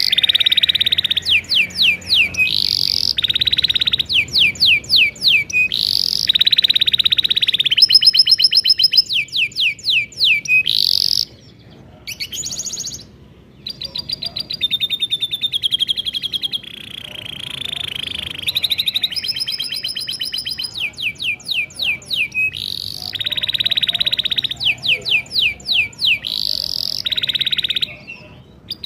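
Domestic canary singing a long, continuous song of rapid trills (rolls) and repeated chirp phrases, with brief pauses about twelve seconds in and just before the end.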